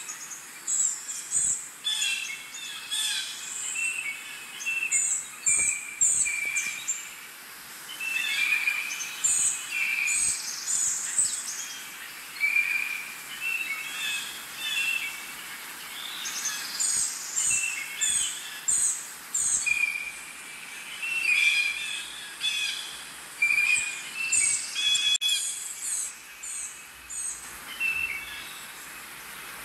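Birds calling: a near-continuous run of short, high chirps and whistles over a faint hiss.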